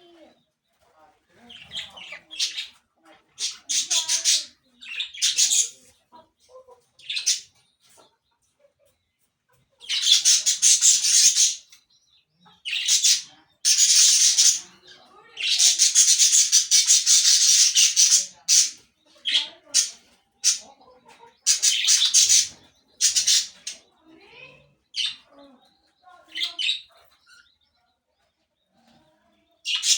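Parakeets calling in harsh, scratchy screeches and chatter. The calls come in irregular bursts, some short and some lasting one to two seconds, with quiet gaps between them.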